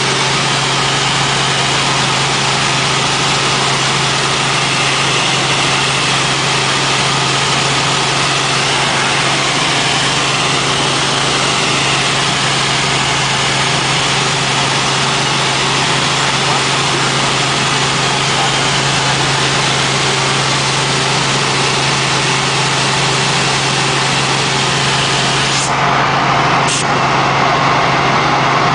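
Helicopter in flight: steady, loud engine and rotor noise with a constant low hum. Two brief clicks near the end, as the higher part of the noise changes.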